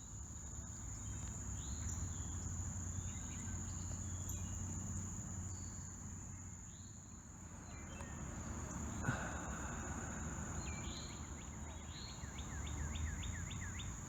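Steady high-pitched drone of insects, with bird calls dotted over it. Near the end a bird gives a quick run of about eight short falling notes. A low rumble sits underneath.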